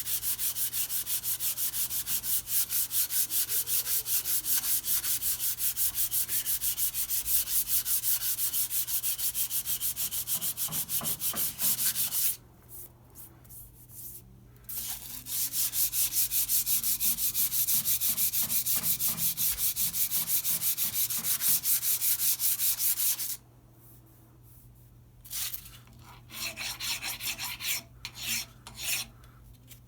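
Metal face of a brake lathe part being rubbed flat by hand against an abrasive, in quick, even back-and-forth strokes that take down high spots and a hammered ridge. It pauses about twelve seconds in, runs again from about fifteen to twenty-three seconds, then comes in a few short spurts near the end.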